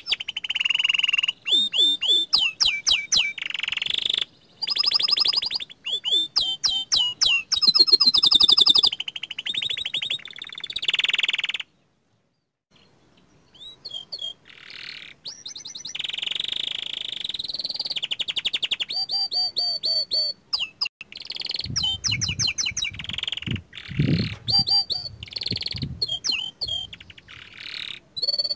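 Young canary singing steadily in long phrases of rapid high trills, rolls and chirps, with a brief complete break about twelve seconds in. A low rumble sits under the song in the last third.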